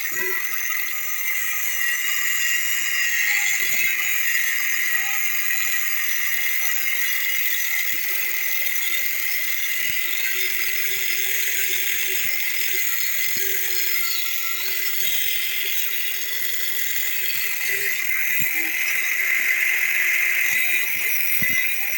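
Homemade angle grinder driven by a 775 DC motor, its disc cutting through thick iron: a steady high-pitched grinding whine, with a few faint knocks.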